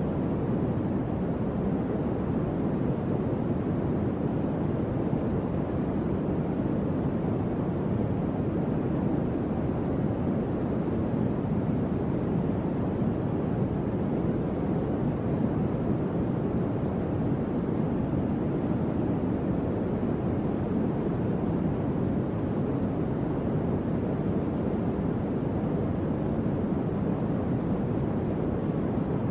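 Electric fan running with a steady, even whoosh of moving air that is mostly low and soft, with little hiss on top.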